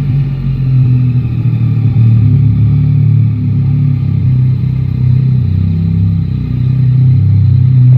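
Three-cylinder motorcycle engine running steadily at low revs.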